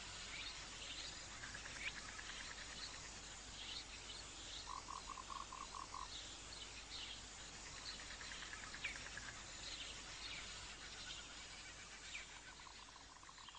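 A steady chorus of calling frogs and insects, with repeated chirps and trilled pulse trains. A short run of about six evenly spaced pulses stands out a third of the way in.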